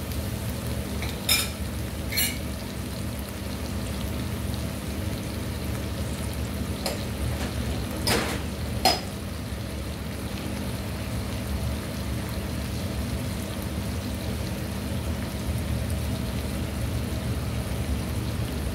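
Chicken stir fry in a sauce sizzling in a wok over a gas burner, a steady cooking noise. A few sharp clinks sound over it, a pair just after the start and another pair around eight seconds in.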